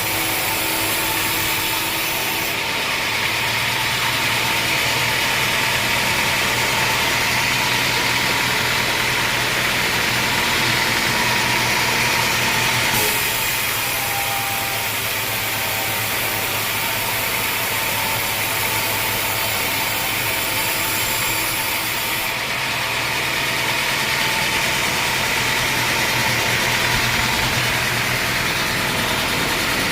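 Sawmill machinery running steadily, an engine-like drone under a constant hiss. The upper hiss shifts in character about two seconds in, again near the middle, and about two-thirds of the way through.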